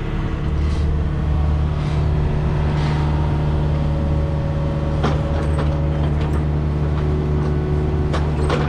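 Takeuchi excavator's diesel engine running steadily while it turns a hydraulic auger bit in a deep hole, with a couple of sharp knocks about five seconds in and near the end.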